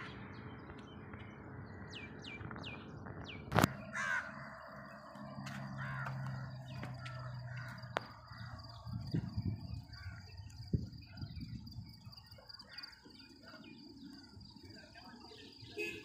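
Outdoor ambience: birds calling repeatedly in the first three seconds, then a sharp knock about three and a half seconds in. After that, a steady high thin whine and a low hum, with scattered faint calls.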